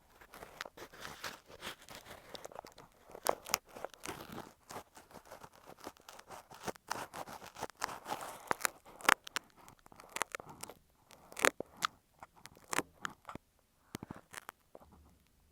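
Ear pick scratching and scraping directly on an earphone microphone: a close, crackly run of scrapes with sharp clicks, growing sparser and quieter near the end.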